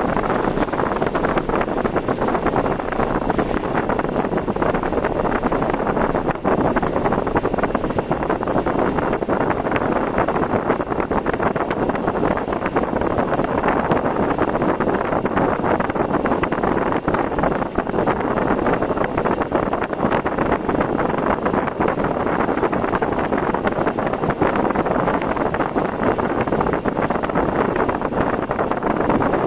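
Steady rushing noise of typhoon wind and rain, flecked with a dense fine crackle, from a car driving through the storm.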